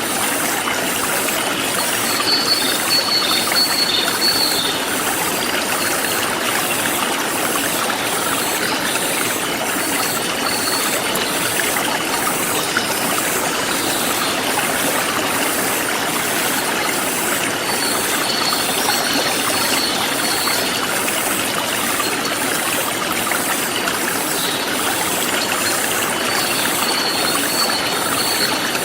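Forest stream flowing steadily over rocks, with insects chirping in a high, even rhythm of one to two chirps a second throughout, and a short high trill that recurs four times.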